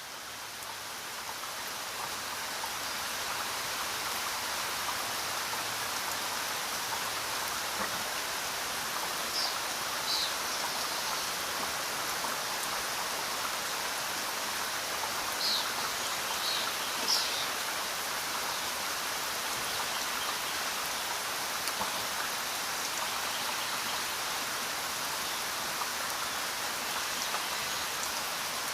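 Steady rain, fading in over the first few seconds and then holding even, with a few short high-pitched sounds standing out between about nine and eighteen seconds in.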